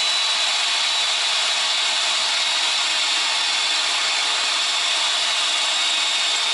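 Power drill boring into a snapped bolt stuck in an exhaust flange: a steady high-pitched whine of a drill bit cutting and rubbing on steel.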